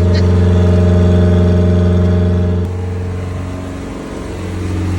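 Suzuki Samurai's swapped-in 1.6-litre 16-valve four-cylinder engine running steadily just after a cold start at −1 degrees, having sat six days. It drops in loudness abruptly about halfway through and builds back up near the end.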